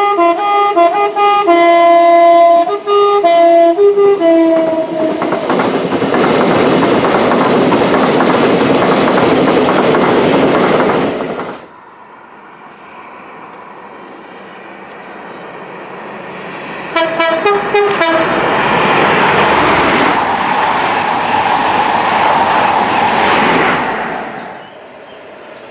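A mainline train's two-tone horn sounds a rapid series of alternating high and low toots, then the train passes at speed with a loud rushing roar that cuts off suddenly. A few seconds later, another short burst of horn toots is followed by a second high-speed pass that fades away.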